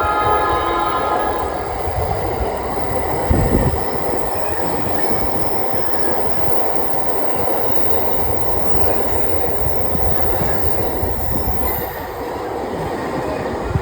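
Train passing at close range: a steady rumble and rail noise throughout, with a horn-like tone that fades out in the first second or two and a brief low thump about three and a half seconds in.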